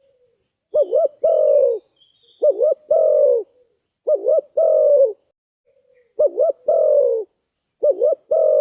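Spotted dove (tekukur) cooing its call over and over, about five times. Each call is a quick two-note hook followed by a longer, falling coo.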